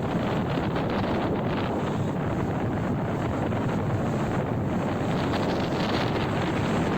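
Steady wind rushing over the microphone of a moving motorcycle, mixed with road and engine noise.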